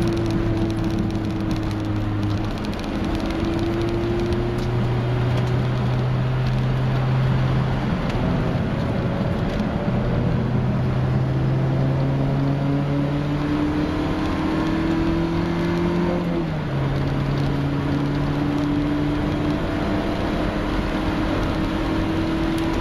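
Mk1 VW Golf Cabriolet's 1.8-litre four-cylinder petrol engine heard from inside the cabin, pulling hard on track with its pitch climbing slowly and dropping sharply a few times at gear changes, over a steady hiss of road and tyre noise.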